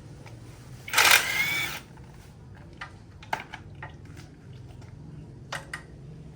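Metal parts and tools being handled during a diesel tiller repair: a loud metallic scrape with a slight squeal about a second in, then a few scattered clinks and taps.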